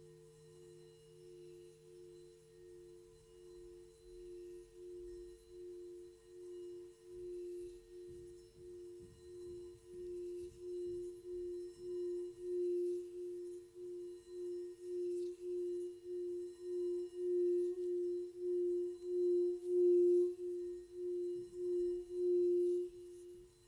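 Tibetan singing bowl sounding a steady ringing tone with a rhythmic wobble of about one and a half pulses a second, swelling gradually louder and then stopping abruptly just before the end. A lower hum dies away in the first few seconds.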